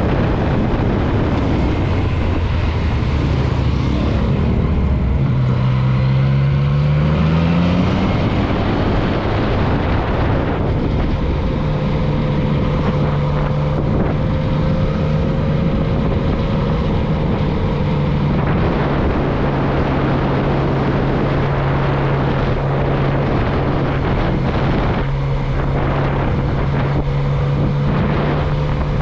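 Motorcycle engine under way with heavy wind noise on the microphone. The engine pitch climbs as it accelerates a few seconds in, then holds steady at a constant cruising speed for most of the rest.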